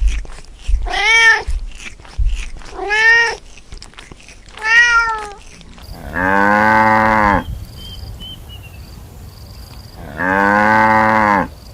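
A domestic cat meowing three times, each meow rising and falling in pitch, about two seconds apart. Then a cow mooing twice, two long, lower calls of over a second each.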